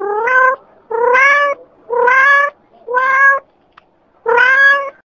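A cat meowing five times, about a second apart. Each meow lasts about half a second and rises slightly in pitch.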